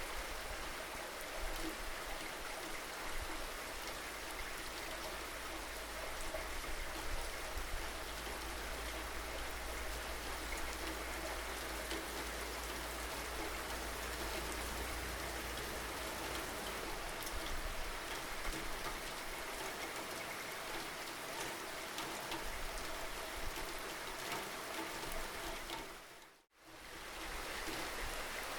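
Steady rain falling, a constant hiss of drops with a low rumble underneath that fades out about halfway through. Near the end the rain sound dips out to silence for a moment and fades back in, like an edit or loop point.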